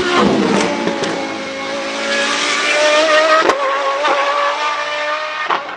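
High-revving sports car engine at high revs, its pitch dipping then climbing again, with a sharp crack about three and a half seconds in. The engine sound stops abruptly near the end.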